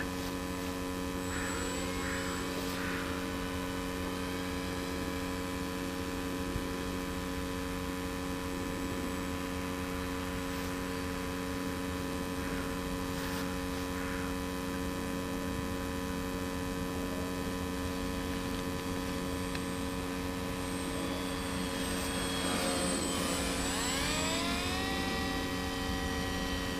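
Electric motor and propeller of an RC model plane passing close, about 22 seconds in, with its whine falling in pitch as it goes by and then holding steady. Under it, a steady hum runs throughout.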